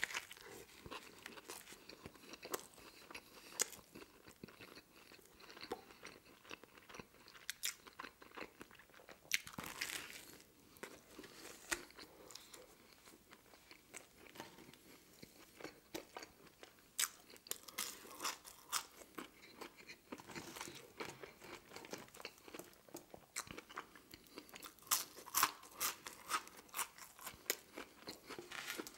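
Close-miked chewing of a crusty toasted sandwich: irregular crunches and wet mouth clicks. There is a louder bite-crunch about ten seconds in and a run of louder crunches near the end.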